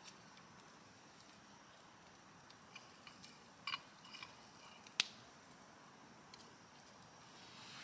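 A few light clinks and taps of metal camping cookware being handled, some with a brief ring, then one sharp click about five seconds in.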